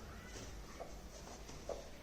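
Broody hen giving two soft, short clucks, about a second apart, over a low steady hum.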